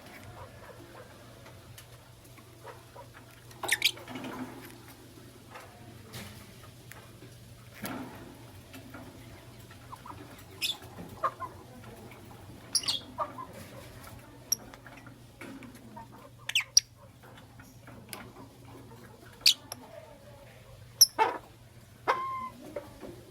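Lovebirds giving short, sharp chirps at irregular intervals, every second or few, with a couple of downward-sliding calls near the end. A faint steady hum runs underneath.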